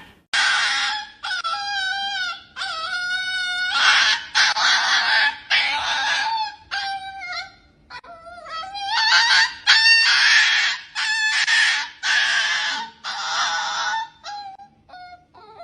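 An animal giving a long series of harsh honking calls, each lasting about half a second to a second, with short breaks between them.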